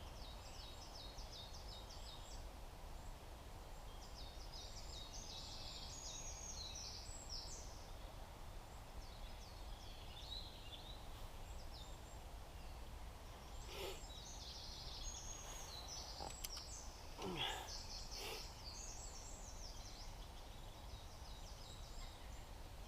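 Wild songbirds singing in repeated high, rapid twittering phrases over a low steady background rumble, with a few louder short calls about two-thirds of the way through.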